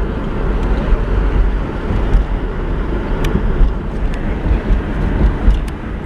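Wind buffeting the camera microphone, a loud low rumble that rises and falls, with a few faint clicks.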